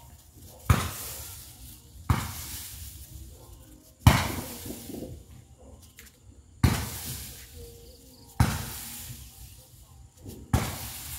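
Aerial fireworks firing shot after shot: six sharp bangs, each followed by a fading tail, coming every one and a half to two and a half seconds.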